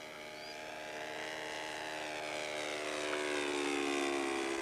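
A 1/3-scale radio-controlled model airplane's engine and propeller running in flight. The note grows steadily louder as the plane comes closer, and the pitch sags slightly in the second half.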